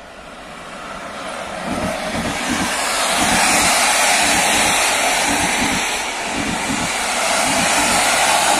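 PKP Intercity locomotive-hauled passenger train passing at speed: a rushing noise that builds over the first three seconds and then holds loud, with a run of low clatters from the wheels on the track.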